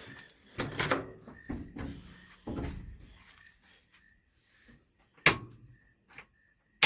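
Crickets chirping steadily in the background. There are rustling handling noises in the first few seconds, then three or four sharp clicks or knocks near the end.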